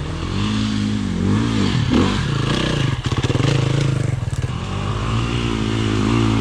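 Dirt bike engine revving up and down, its pitch rising and falling, with a short rattling clatter about three seconds in.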